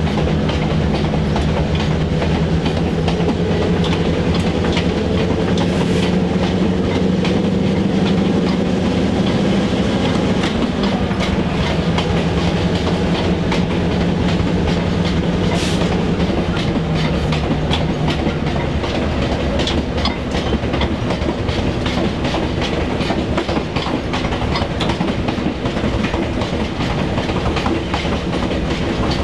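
Diesel-hauled train moving along the track: a steady diesel engine drone with wheels clicking over rail joints. The engine tone drops away about eighteen seconds in, while the wheel clatter carries on.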